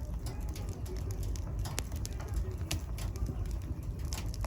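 Wood fire in a fireplace crackling: scattered sharp pops over a low, steady rumble of the burning fire.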